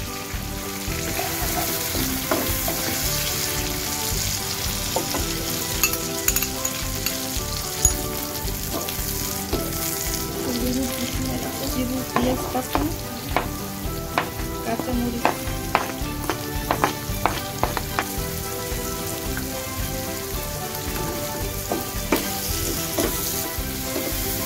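Beaten eggs sizzling as they fry in oil with chopped tomato and onion, stirred and scrambled with a wooden spatula. The spatula's scrapes and taps on the pan come thickest between about twelve and eighteen seconds in.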